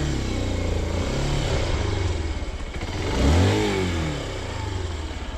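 Motorcycle engine running at low speed, with a brief rise and fall in revs about three seconds in.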